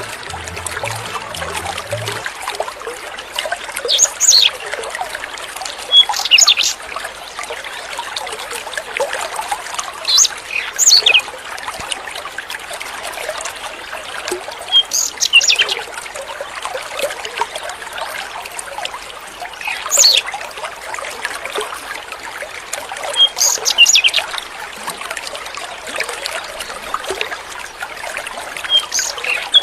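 A songbird singing short, high, sweeping phrases every few seconds over the steady trickle of running water.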